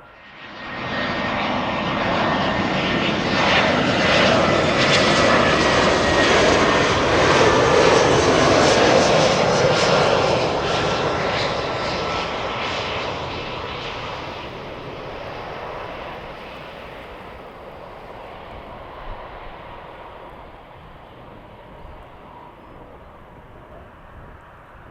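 Jet aircraft engines passing by: the noise cuts in abruptly, builds to its loudest about eight to ten seconds in with a slowly falling whine, then fades away.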